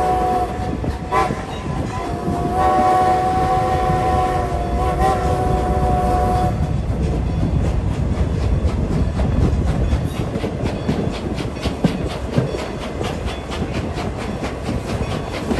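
Steam locomotive whistle of No. 90 sounding from the train: the tail of one blast, a short toot about a second in, then a long blast that stops about six and a half seconds in. After that, steady clickety-clack of the coaches' wheels over the rail joints.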